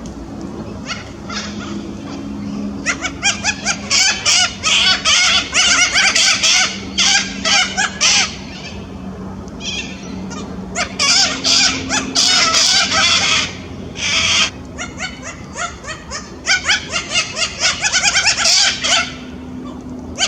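Sulphur-crested cockatoos calling, with harsh chattering squawks in repeated bursts and short pauses between them.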